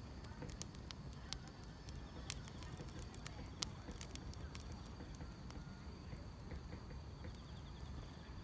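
Firewood burning in a fire, crackling with irregular sharp pops, one louder pop about three and a half seconds in, over a low rumble. A faint steady chirring of crickets or other grass insects runs underneath.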